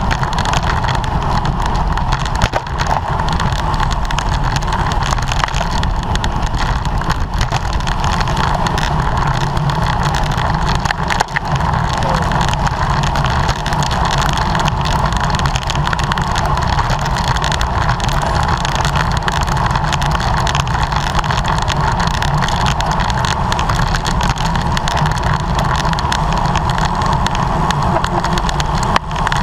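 Steady wind rush and road noise on a camera carried on a racing bicycle at speed, with a low rumble and a constant hum.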